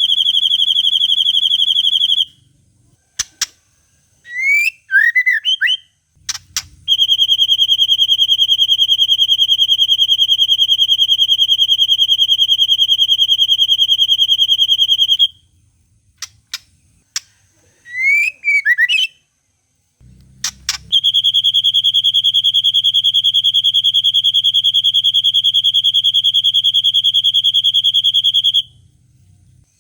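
Murai batu (white-rumped shama) song: long, fast, even trills held at one high pitch for several seconds, the 'cililin panjang' imitation. It comes three times, with sharp clicks and quick chirping phrases in the gaps.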